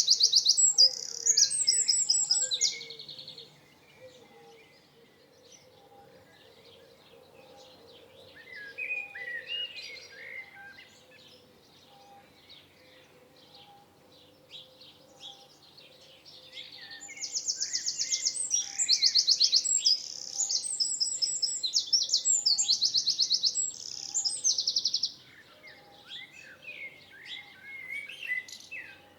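Songbirds singing: a loud, rapid, high trilled song comes in bursts near the start and again for several seconds past the middle, with softer chirps in between.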